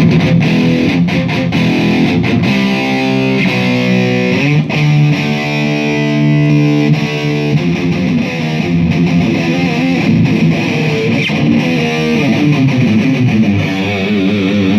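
Electric guitar played through a Mooer Black Truck multi-effects pedal with a distorted tone, alternating held chords and picked notes; a long held chord cuts off sharply about halfway through. The pedal's delay and chorus are what the owner says are not working.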